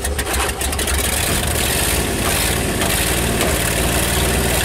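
1959 Ford Custom 300's 292 Y-block V8 running steadily on its first run after sitting 46 years, kept going by gas fed into the carburetor, in first gear with a rear wheel turning up on blocks. A few light clicks come near the start.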